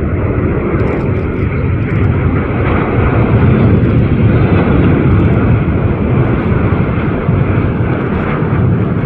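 Jet airliner passing on its landing approach: a loud, steady engine rumble that swells to its loudest a few seconds in and then eases off slightly.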